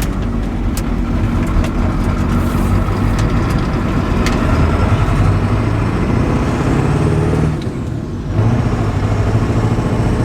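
Ford 7.3 Powerstroke turbo-diesel V8 pulling under acceleration on a performance tune, heard from inside the truck. The engine sound drops off briefly about eight seconds in, then picks up and pulls again.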